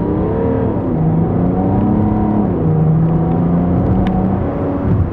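Tuned BMW 335d's twin-turbo straight-six diesel under hard acceleration, heard from inside the cabin. The engine note climbs and drops back twice as the automatic gearbox shifts up, then climbs again.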